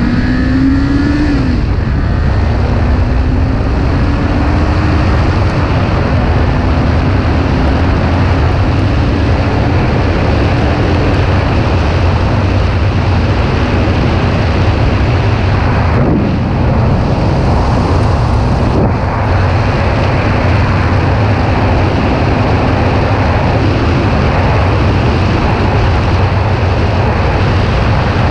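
Kawasaki Ninja 400 parallel-twin engine pulling under way, buried under heavy wind rush on the microphone. The engine note climbs, drops once about a second and a half in as a gear changes, then climbs slowly again and holds steady.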